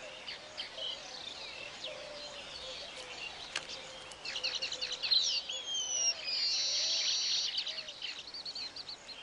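Weaver birds chirping and chattering in their colony, many short chirps overlapping. A falling whistle comes about five seconds in, followed by a loud buzzy trill lasting about a second.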